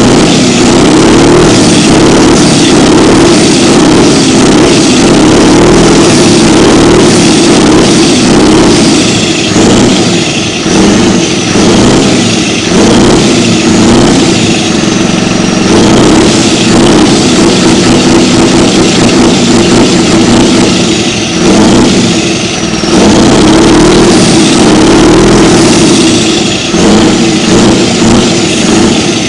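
Scania R620's V8 diesel engine revved again and again, very loud, each rise dropping back before the next. A high whistle falls away after several of the revs.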